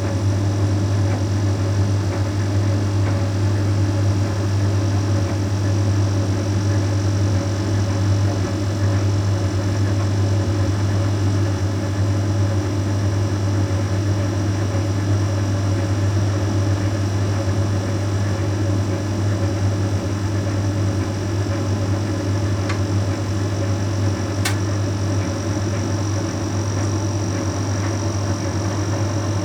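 Bosch Series 6 heat pump tumble dryer running mid-cycle: a steady low hum with a fainter high whine above it. A couple of light ticks sound near the end.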